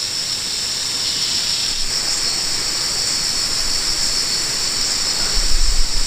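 Steady high-pitched insect chorus that does not change, with wind gusts rumbling on the microphone near the end.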